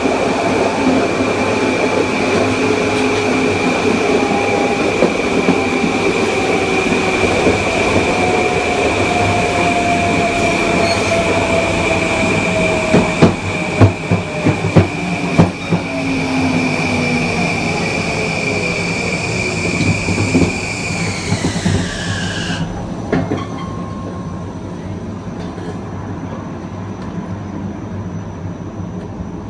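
Kawasaki M9 electric multiple unit's MELCO IGBT-VVVF inverter and AC traction motors heard while the train slows. A steady high inverter whine runs alongside motor tones that fall slowly in pitch, and there is a burst of loud wheel clanks over rail joints about halfway through. About 22 seconds in, the inverter tone drops and cuts out, leaving quieter train running noise.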